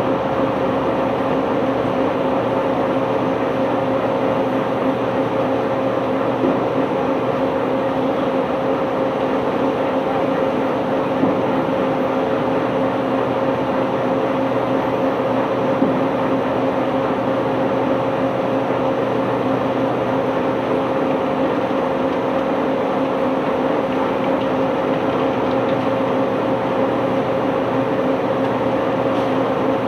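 Unloading machinery running steadily: a constant engine drone with a steady low hum and a few faint knocks.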